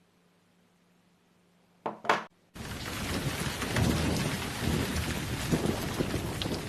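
Near silence, then two short sharp bursts about two seconds in, followed half a second later by a loud, dense rumbling and crackling noise that cuts in abruptly, like an edited-in explosion or thunderstorm sound effect.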